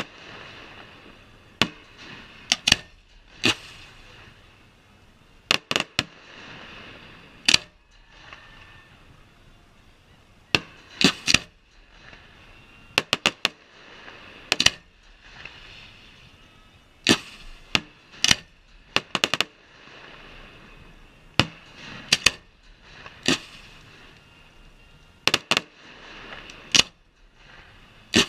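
Fireworks display: sharp bangs of aerial shells bursting, sometimes singly and sometimes in quick clusters of two to four, at irregular intervals of one to a few seconds, with a hissing haze between them.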